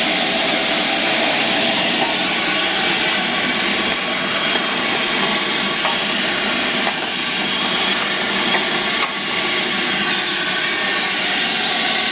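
Vacuum cleaner motor running steadily with a whine, sucking dirt and debris off a condensing unit's coil during dry cleaning.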